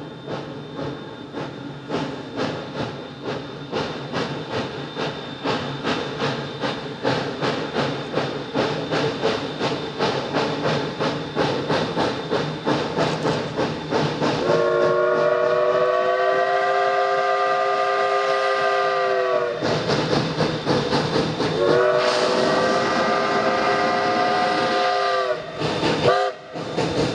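Narrow-gauge steam locomotive working past, its exhaust chuffing about four beats a second and growing louder. Its chime whistle then sounds two long blasts and a short toot.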